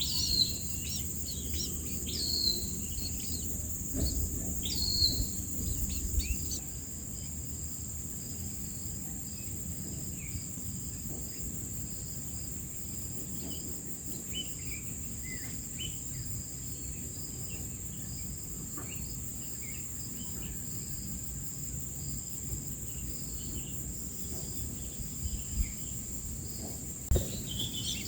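Small wild birds at a nest chirping in short, high, falling notes, busy for the first few seconds and then only scattered and faint. A steady high insect drone runs underneath, with a soft thump or two.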